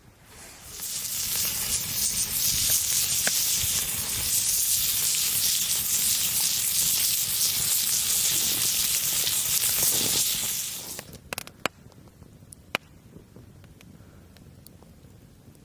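Loud, steady sizzling that builds up in about a second and stops abruptly about ten seconds in. A few sharp clicks and taps follow.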